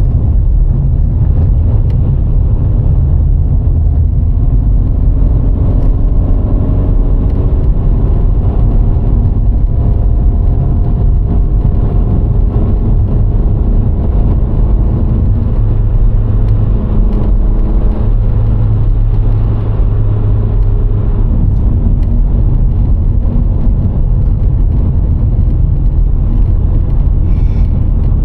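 VW Golf IV 1.6 driving along a road: a steady low rumble of tyres and wind, with the engine's hum drifting slowly in pitch as the speed changes.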